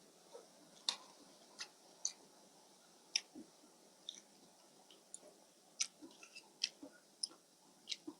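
Close-up eating sounds: irregular soft clicks and smacks of chewing, about one or two a second.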